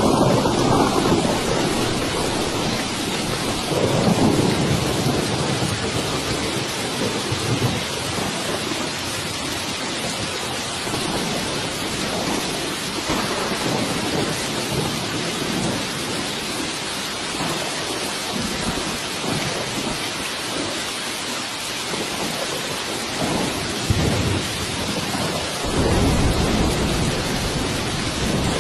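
Steady heavy rain with rolling thunder: low rumbles swell at the start, about four seconds in, and again near the end.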